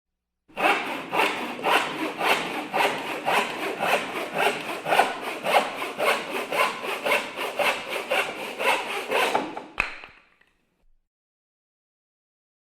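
Hacksaw sawing in steady back-and-forth strokes, about three a second. It stops with a sharp click near the end, followed by silence.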